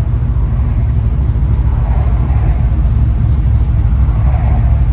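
A restored 1970 Chevelle's freshly rebuilt V8 running with a steady low rumble, the car under way on its first test drive.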